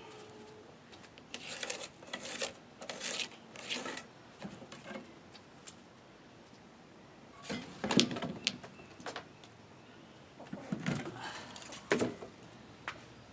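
Irregular scuffs, scrapes and knocks of work on wooden porch deck boards, with two sharper, louder knocks about eight and twelve seconds in.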